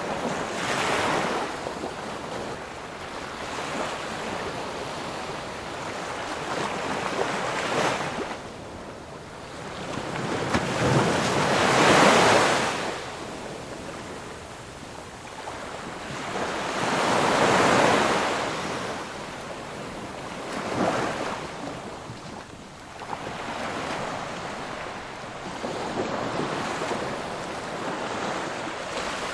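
Ocean waves breaking and washing on a shore, each swell building and falling away every few seconds, with the biggest breakers about a third and two thirds of the way through.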